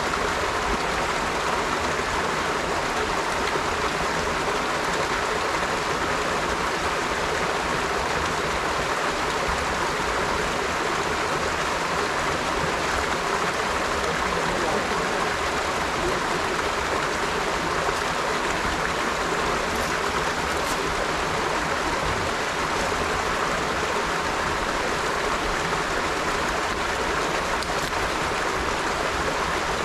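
A river flowing steadily, its water rushing and splashing in an even, unbroken wash of sound.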